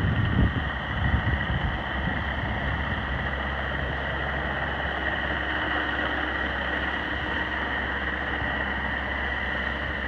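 Mecalac compact excavator engine running steadily at idle, with a steady high whine over a low drone. A few irregular low knocks in the first second or so, then an even hum.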